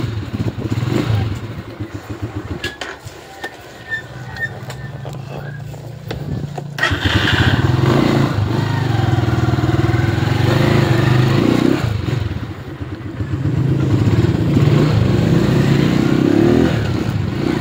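Skygo motorcycle engine running after its water-soaked primary-type ignition was converted to a battery-operated CDI. It drops low for a few seconds, then is revved up sharply about seven seconds in and rises and falls with the throttle. It runs but is not yet fully smooth.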